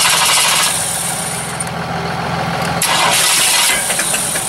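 Chevrolet big-block 454 V8 on an engine run stand, running steadily with two short blips of the throttle at the carburetor, one at the start and one about three seconds in.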